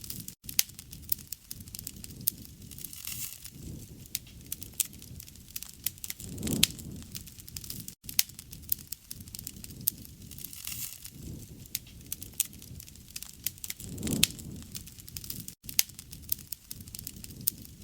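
Wood fire crackling and popping steadily, with sharp snaps over a low rushing sound that swells up twice.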